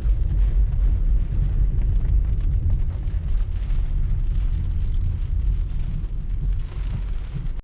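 Tropical-storm wind buffeting the microphone: a loud, deep rumble that surges and eases with the gusts.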